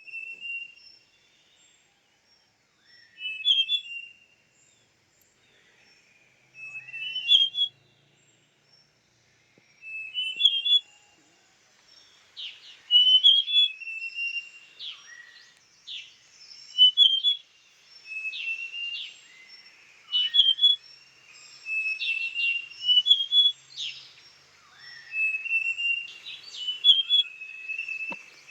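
Large niltava calling: short whistled phrases that step up in pitch, repeated every three to four seconds at first and then much more often from about halfway, with sharp short notes mixed in.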